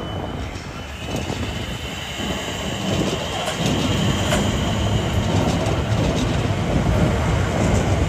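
A passenger train moving at a station platform: a low rumble that grows louder about three seconds in, with a thin high whine over the first few seconds and a few short clicks from the wheels on the track.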